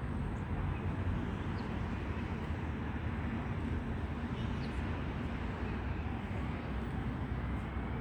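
Outdoor city street ambience: a steady rumble of traffic, with a few faint, short high chirps.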